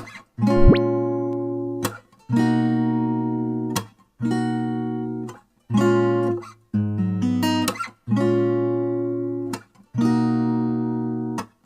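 Background music: strummed guitar chords, each ringing for a second or so and then cut off short, about one every two seconds.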